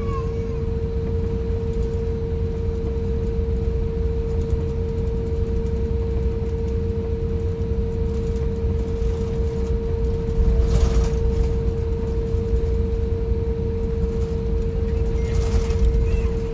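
Cabin noise of an Airbus A350-1000 airliner rolling on the ground after landing: a steady low rumble with a constant humming tone, and two brief louder thumps about eleven and sixteen seconds in.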